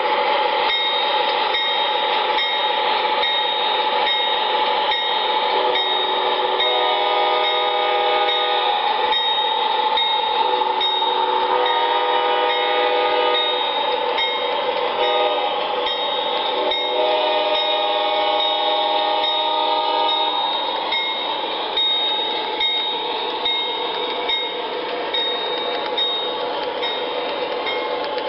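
Train rolling with its wheels clicking over rail joints at a steady rhythm, and its horn sounding three long blasts of about three seconds each.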